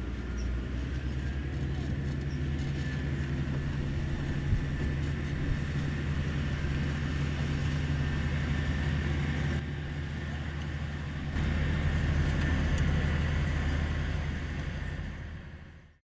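Komatsu GD555 motor grader's diesel engine running steadily under work, with a steady low hum. The level dips briefly about ten seconds in, rises again, then fades out just before the end.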